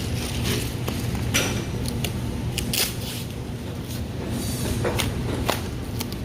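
Scattered knocks, clicks and short scrapes from parts being handled, about a dozen irregular hits over a steady low hum.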